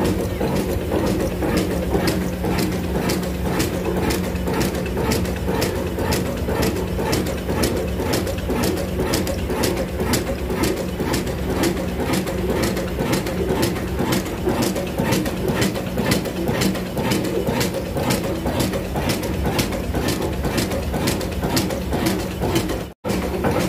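Old black diesel engine running steadily, a low hum with a regular knock a little over twice a second. The sound drops out for an instant near the end.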